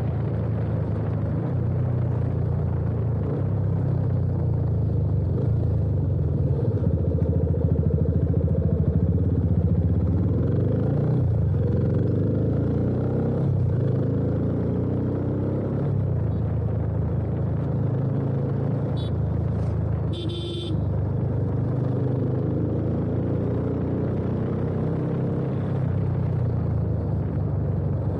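Yamaha FZ25's single-cylinder engine running steadily under way through an aftermarket slip-on exhaust. A horn sounds briefly twice, the second longer, about two-thirds of the way in.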